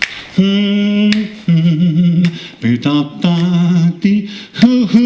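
A man's voice singing a cappella without words, held humming notes on a bluesy line, with finger snaps keeping time.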